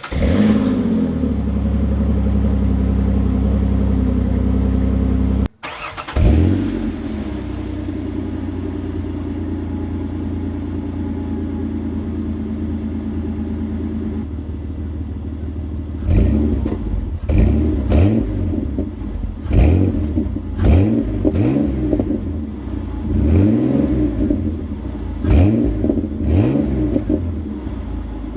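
Ford 4.0 SOHC V6 running through a Flowmaster Super 40 muffler, with the resonator and catalytic converters still in place: a steady idle, then, after about 16 seconds, a series of about eight quick revs, each rising and falling back. Intake noise from a cold air intake is part of the engine sound.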